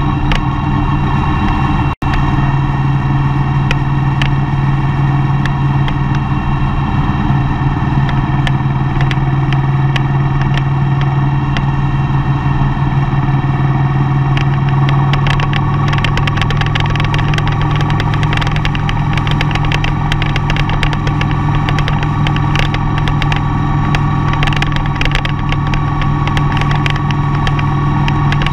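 A vehicle on the move: a steady low engine drone with road noise, cutting out for an instant about two seconds in.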